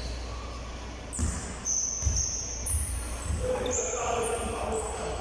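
Basketballs bouncing irregularly on a hard court floor, with short high sneaker squeaks from players moving.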